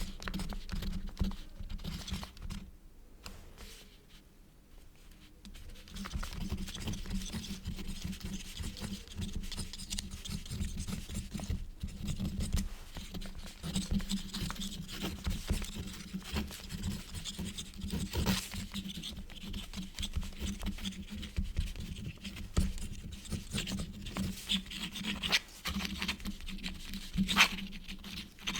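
Quill nib scratching across paper in continuous writing strokes, with a quieter pause a few seconds in.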